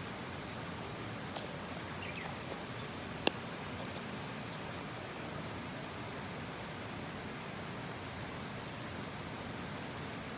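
Wood campfire burning with a steady hiss and a few sharp pops, the loudest about three seconds in.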